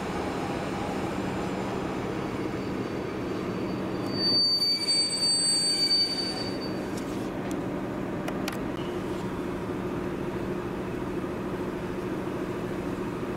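Diesel-hauled passenger train rolling in: the locomotive's diesel engine hums steadily under the rumble of wheels on rails. About four seconds in, a high, steady metallic squeal rises over it for some three seconds, followed by a few sharp clicks.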